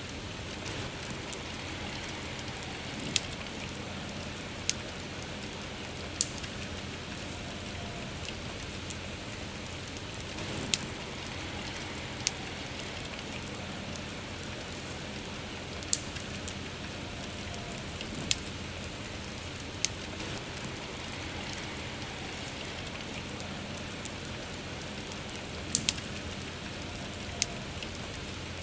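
Steady soft rain with a campfire crackling over it; sharp pops from the burning wood come every second or two.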